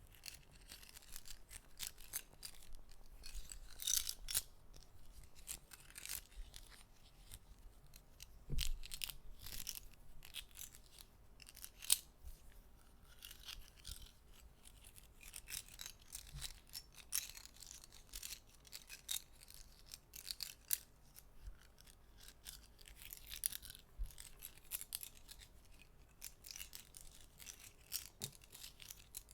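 Soft, irregular clicks from small objects handled close to a sensitive microphone, several a second, mixed with brief patches of light rubbing.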